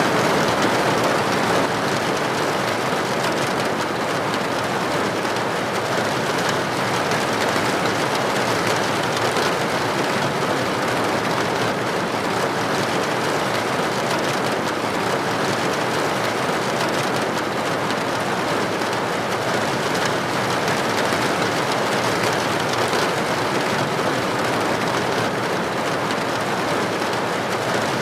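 Steady heavy rain, an even hiss of falling water without pauses, with no single drops standing out.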